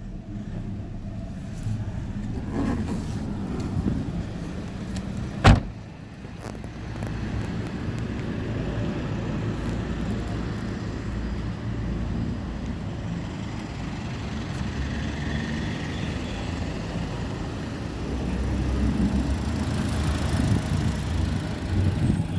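2012 Hyundai Elantra's 1.8-litre four-cylinder petrol engine idling steadily, with a single sharp knock about five and a half seconds in.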